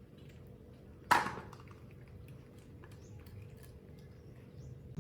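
A single sharp knock about a second in, ringing briefly, among faint small clicks and rustles.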